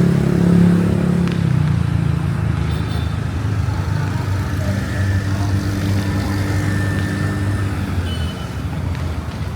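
Motor vehicle engine running close by, a steady low hum that eases off slightly near the end, over general street noise.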